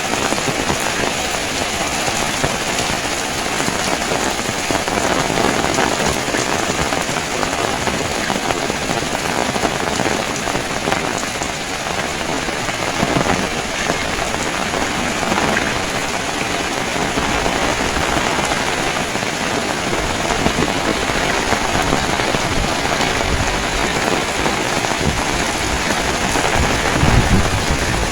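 Heavy rain falling steadily and hitting hard surfaces, a dense even hiss with no let-up. Near the end there is a short low rumble.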